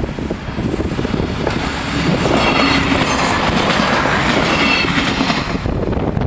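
A Bombardier Talent diesel railcar passing over a level crossing: a rushing wheel-and-rail noise that swells from about a second and a half in, with a thin high whine in the middle, and dies away near the end.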